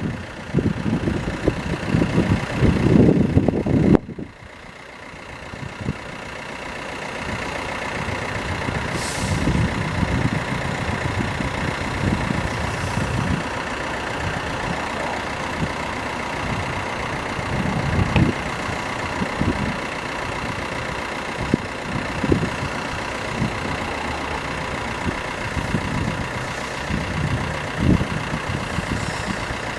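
Road traffic at a level crossing: car and truck engines idling and passing in repeated swells, with a steady high tone over them. The sound changes abruptly about four seconds in.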